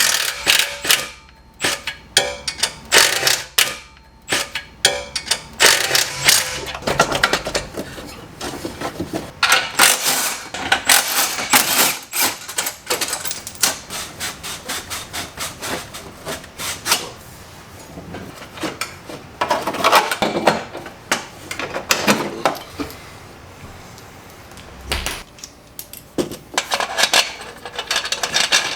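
Hand tools working on a car's underside: runs of ratchet clicks and scattered metal clinks and knocks, starting and stopping irregularly, as exhaust fittings are loosened to get at an O2 sensor.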